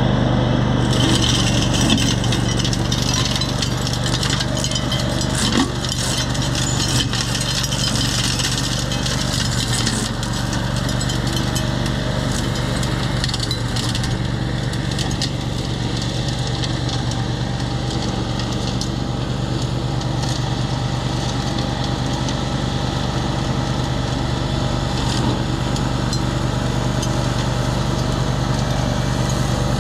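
Tractor engine running steadily under load while driving a flail mower, with scattered cracks and snaps from brush and woody stems being chopped.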